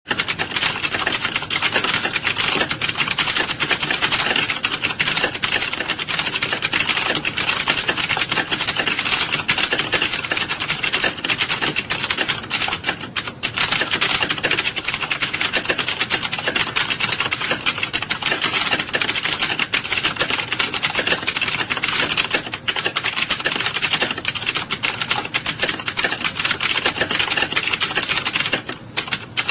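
Many keyboards being typed on at once in a typing class: a dense, continuous clatter of keystrokes, with brief lulls about 13 and 22 seconds in and just before the end.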